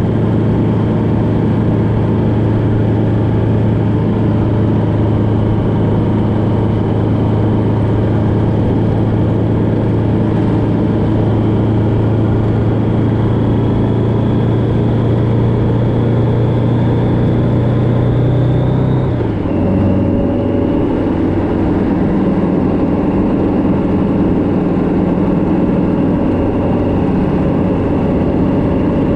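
Motorcycle engine running steadily on the road, its note creeping slowly higher, then dropping sharply about two-thirds of the way through and settling at a lower pitch. Wind and road noise rush underneath the whole time.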